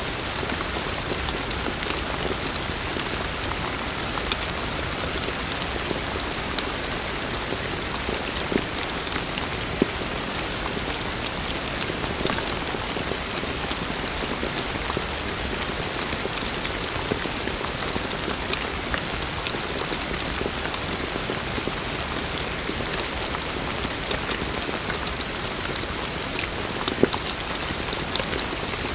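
Heavy rain falling steadily, a dense even hiss with individual drops ticking sharply on a surface here and there.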